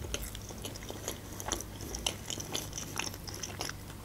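A person chewing a soft, cheesy mouthful close to the microphone, with many small irregular wet mouth clicks.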